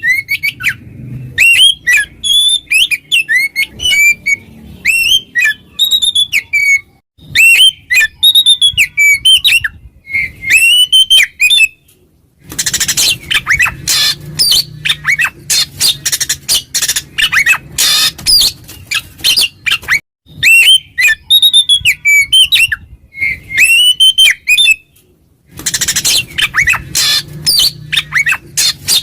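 Oriental magpie-robin (kacer) singing loudly in full 'ngeplong' song, the territorial song that calls out rival males. Phrases of clear whistled notes that slide up and down alternate with stretches of fast, harsh chattering notes, with two short pauses, about 12 and 25 seconds in.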